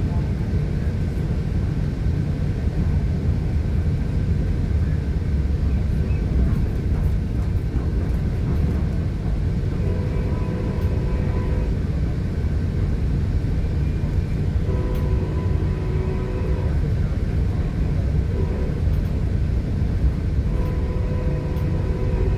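Steady low rumble of a New Mexico Rail Runner Express passenger coach in motion, heard from inside. Over it the train's horn sounds in a long, long, short, long pattern, the grade-crossing signal.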